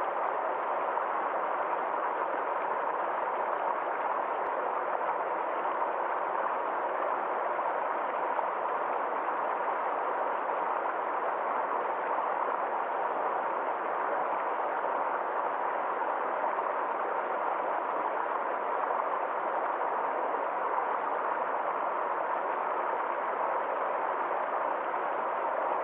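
Water of a small stream flowing steadily, an even, unbroken rush with no change in level.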